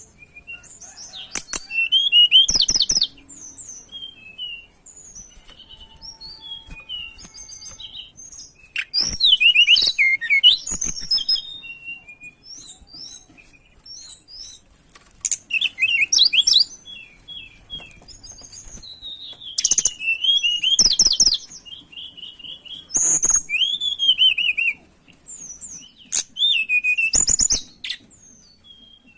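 Tledekan gunung songbird singing: loud bursts of rapid, high, sweeping twittering phrases every few seconds, with softer scattered chirps between them.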